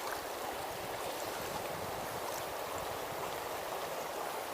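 Steady rush of river water flowing over stones.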